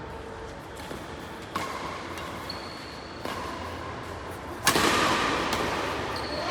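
Badminton racket strikes on a shuttlecock, three sharp hits about a second and a half apart, as in a rally. A louder rush of noise follows the last hit.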